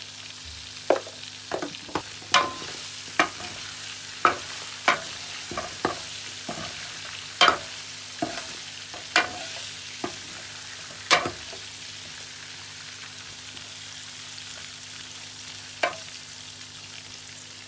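Chicken sizzling as it fries in a pan while a spoon stirs it, knocking and scraping against the pan about fifteen times in the first eleven seconds and once more near the end.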